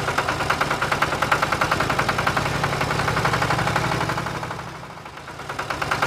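Small motor of a DIY toy tractor running steadily with a rapid, even rattle. It fades a little about five seconds in, then picks up again.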